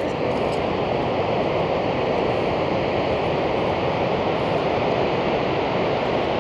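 Steady rushing noise of air streaming past the microphone while riding an e-bike, with no rise and fall in level.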